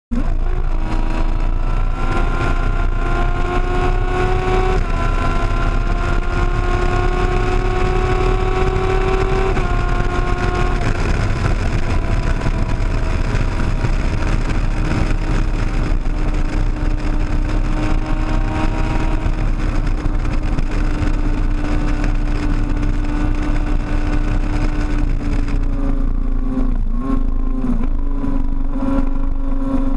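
Sportbike engine pulling hard at highway speed, its pitch climbing and then dropping sharply twice in the first ten seconds as it shifts up a gear, then holding a steady high-speed drone. Heavy wind rumble runs underneath.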